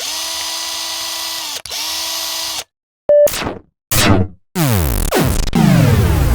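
Two runs of a small electric motor's steady whine, the second shorter after a brief break. After a moment's silence come a short beep and a series of quick falling electronic sweeps.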